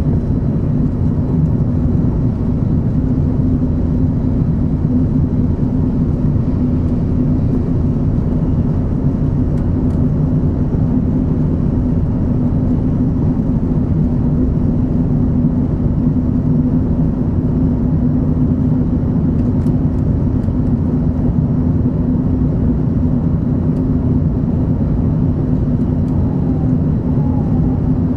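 Steady running noise of a Shinkansen 500 series train heard inside the carriage: a constant low rumble with a steady hum in it, unchanging throughout.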